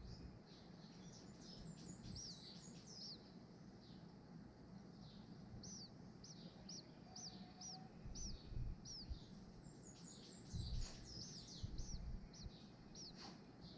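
Faint, high-pitched bird chirps: clusters of short hooked notes, including a quick run of about six evenly spaced notes in the middle, with a few low thumps.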